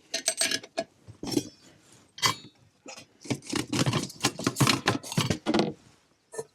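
A run of irregular clattering and knocking as camp cooking gear and kit are handled, busiest in the middle and stopping shortly before the end.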